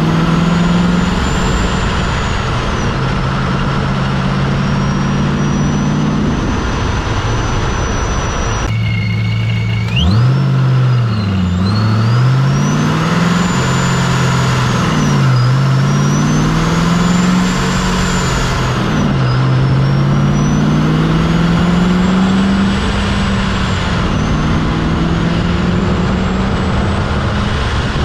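Procharger centrifugal supercharger on a 2004 Ford Mustang Mach 1's 4.6-litre DOHC V8, whining high above the engine note while driving. After a break about ten seconds in, engine and whine rise together and drop back about four times as the car is shifted up through the gears at low rpm.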